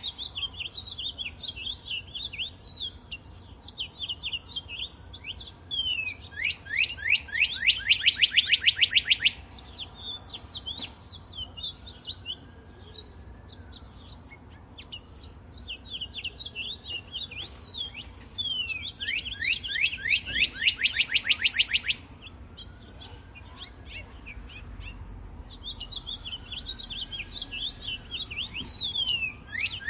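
Songbirds chirping and singing: a steady scatter of short chirps, broken three times by a loud, rapid trill of fast repeated notes lasting two to three seconds.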